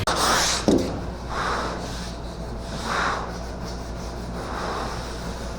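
80-grit sandpaper rubbing over a car's steel roof in repeated strokes, one about every second and a half, over a steady low hum.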